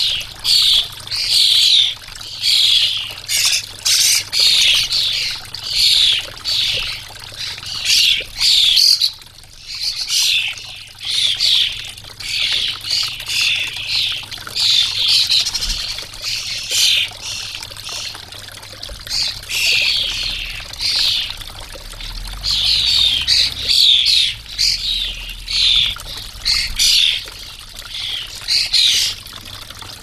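Birds calling over and over, short scratchy calls in quick succession with brief lulls, over the steady trickle of a garden water fountain.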